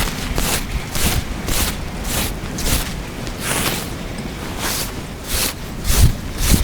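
A brush swept through a horse's tail hair in quick repeated strokes, a short hiss each, about two a second. A few low thumps come in with them, the largest near the end.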